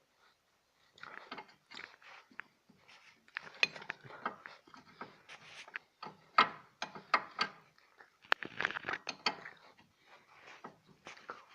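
A 19 mm wrench undoing a bolt on a car's front suspension: irregular bursts of sharp metal clicks and clinks as the bolt is worked loose, with short pauses between.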